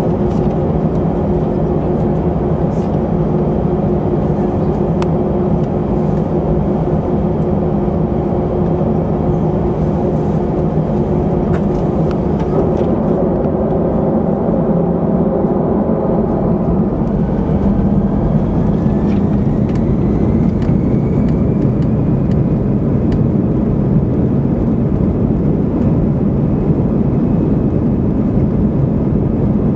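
Airbus A319 cabin noise in flight after takeoff: a steady engine drone and air rush with a constant hum. A faint rising whine comes in about two-thirds of the way through.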